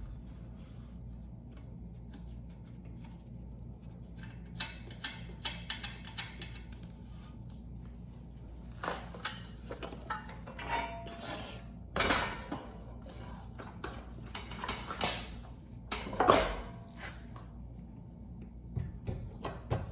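Metal tools and engine parts clinking and clanking as a blown Briggs and Stratton engine is unbolted and pulled off a portable generator, over a steady low hum.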